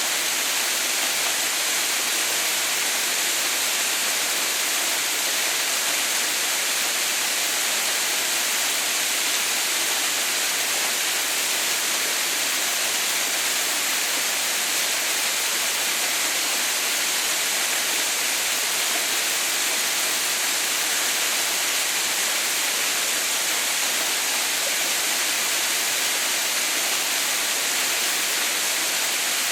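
Waterfall, partly frozen into an icefall, with water still falling steadily: an even, unbroken rushing noise, brightest in the upper range.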